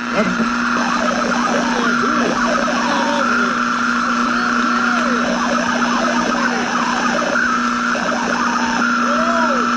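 Vintage radio static: a steady hiss with a low constant hum and a higher steady whistle that drops out and returns, crossed by many short squeals that rise and fall in pitch.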